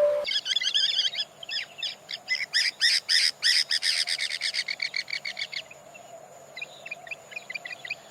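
Bird calls: a fast run of short, repeated high chirps for about five seconds, then a fainter run of chirps near the end.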